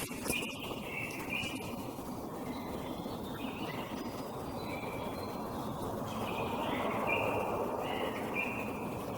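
A songbird singing phrases of short, high notes repeated in steps, over a steady low rumbling noise that grows louder about two-thirds of the way through.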